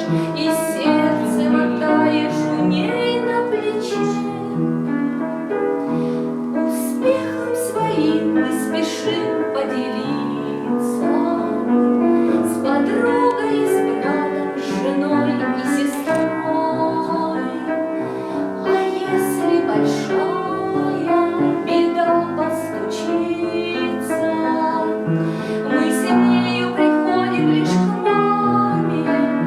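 A woman singing a slow Russian song with piano accompaniment.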